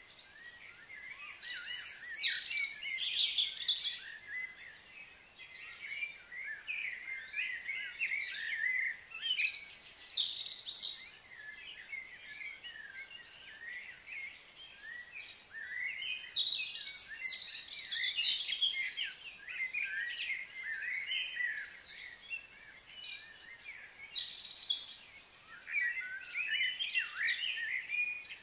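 Wild birds chirping and singing, many quick overlapping calls coming in bursts with short lulls between.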